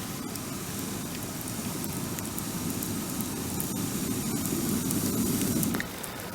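Wood bonfire burning: scattered crackles and pops over a low rushing noise that swells and then drops off sharply near the end.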